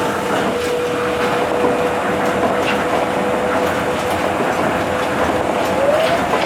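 Tokyo Monorail train running at speed: a steady rumble of running noise with a steady motor whine that rises briefly about six seconds in, and faint knocks passing over the track.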